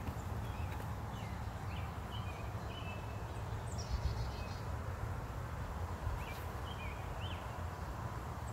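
Small birds chirping in short, scattered calls, with a quick falling run of notes about four seconds in, over a steady low rumble.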